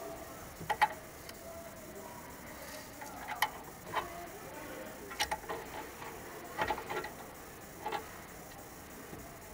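Sharp metallic clicks and clinks in about six short clusters, the loudest about a second in, as tools and brake caliper parts are handled while a rusted caliper guide pin is worked out.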